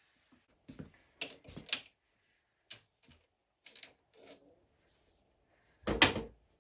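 Metal tools and parts clinking and knocking as a milling post is set up on a lathe, with a brief metallic ring a little before the middle and a heavier clunk near the end, the loudest.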